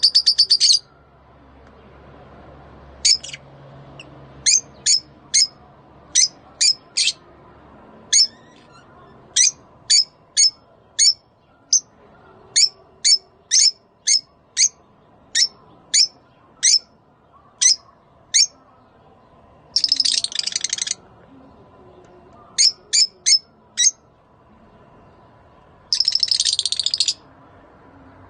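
Lovebirds giving breeding calls: a string of short, sharp, high chirps, some single and some in quick pairs and triplets, broken by three longer bursts of chattering, at the start, about two-thirds through and near the end.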